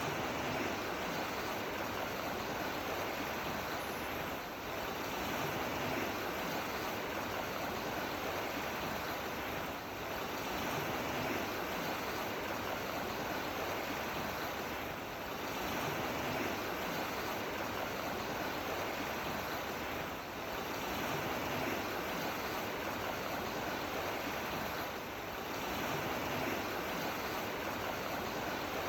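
Steady rushing water, a dense hiss that swells and eases slightly about every five seconds.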